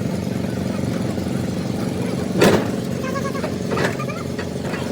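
An engine running steadily at a constant speed, with a sharp knock about halfway through and a lighter one a second later.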